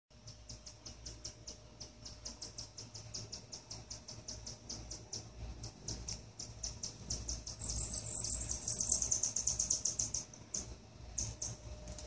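Bird chirping: a steady series of short, high chirps about four a second, broken about two-thirds through by a louder, faster trill.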